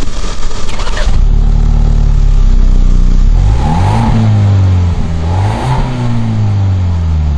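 2021 Ford Bronco engine heard from behind at the exhaust, idling, then revved twice. Each rev rises quickly and sinks back to idle, the first about four seconds in and the second a second and a half later.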